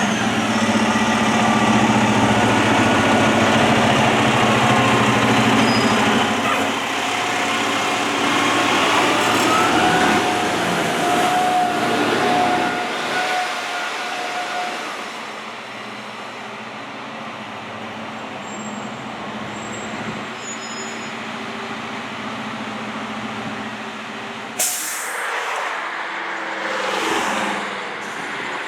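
Heavy fire truck's engine running loud, then fading as the truck moves off. About 25 seconds in, a sudden sharp hiss of the air brakes.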